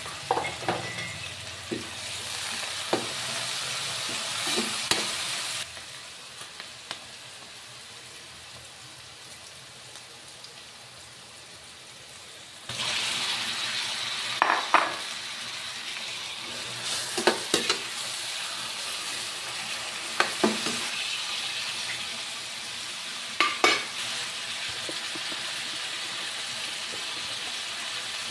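Chopped onion and garlic sizzling in a wok, stirred with a metal ladle that scrapes and knocks against the pan now and then. About 13 seconds in, the sizzle suddenly grows louder as raw pork belly cubes go into the hot pan.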